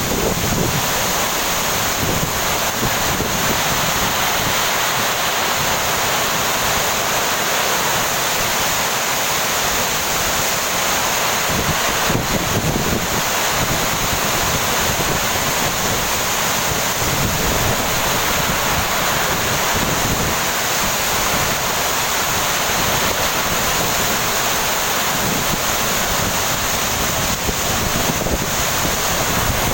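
Heavy tropical rain pouring down in a steady, dense hiss, with low wind buffeting on the microphone now and then.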